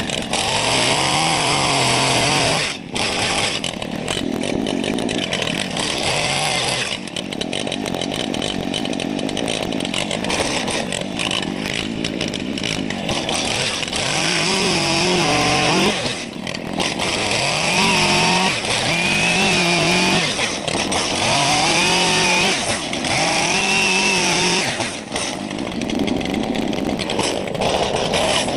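Chainsaw carving into wood, the engine's pitch rising and falling as the throttle is worked and the chain bites, with a few brief drops in level along the way.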